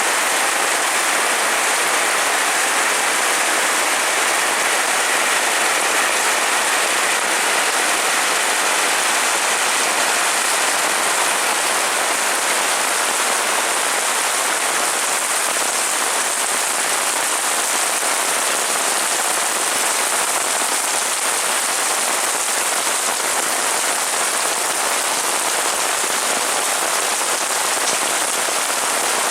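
Heavy rain falling steadily on surfaces, a dense even hiss with no pauses.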